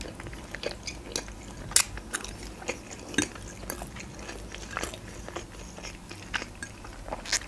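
Close-miked chewing of soft penne pasta with minced meat: wet mouth clicks and smacks, with a few sharper clicks.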